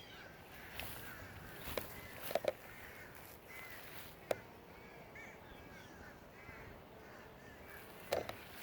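Crows cawing, a few short harsh caws over many soft, high chirps from other birds.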